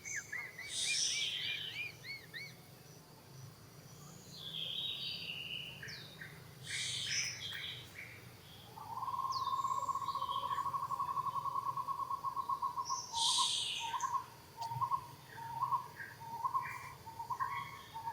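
Several birds calling: high chirps and warbling notes, then a long rapid trill about halfway through, followed by short repeated notes at the same pitch.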